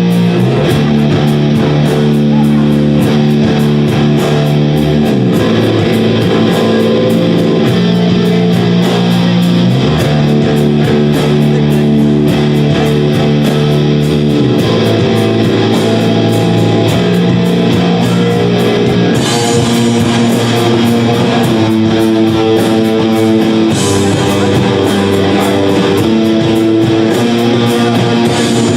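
Live rock band playing, with electric guitar holding chords that change every few seconds.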